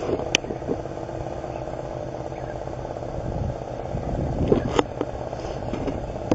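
A car engine running steadily with a low rumble, and a couple of short knocks.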